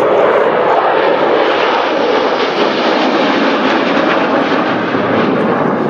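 Jet aircraft passing overhead, a loud, steady engine roar that eases slightly toward the end.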